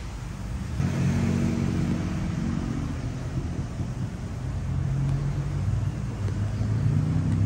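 A motor vehicle's engine running close by, with a low hum that comes in louder about a second in and swells again near the end.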